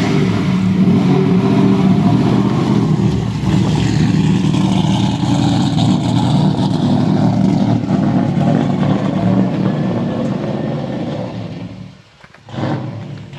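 V8 engine of a swapped Mitsubishi Space Wagon minivan running loud through its 4-inch exhaust as the van pulls away and drives off. The sound fades away about twelve seconds in as the van gets farther off.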